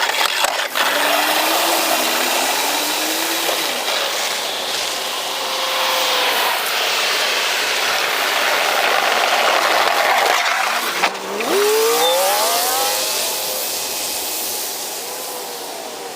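Plow truck's engine pulling away and accelerating, its pitch rising briefly near the start and more strongly about eleven seconds in, right after a sharp knock, over steady road and tyre noise.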